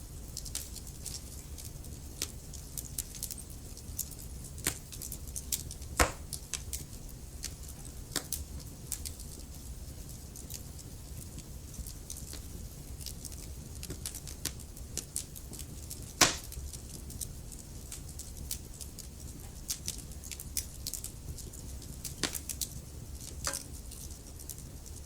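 Wood fire burning in a fireplace: a steady low rumble of the flames with irregular crackles and sharp pops, the loudest pops about six and sixteen seconds in.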